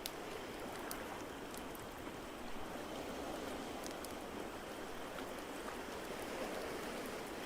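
Crackling wood fire, with a few sharp pops scattered about a second apart, over a steady rush of water.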